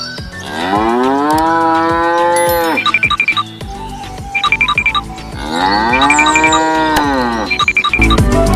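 Cow mooing twice, each moo a long call of about two seconds that rises and then holds. A bell rings in quick short strokes between and after the moos.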